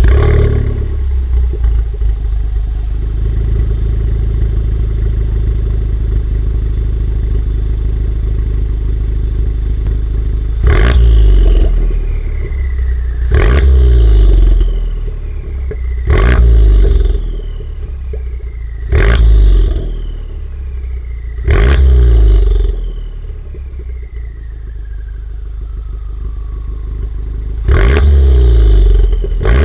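Honda Civic Type R FK8's turbocharged 2.0-litre four-cylinder, breathing through a Remus front pipe and valved cat-back exhaust with the valves open, idling steadily just after starting. From about ten seconds in it is revved sharply six times, every two to three seconds, each rev dropping back to idle.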